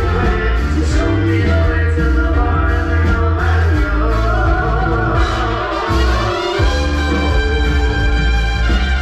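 Live band playing upbeat Latin music, with heavy bass and a singer's wavering held notes in the middle.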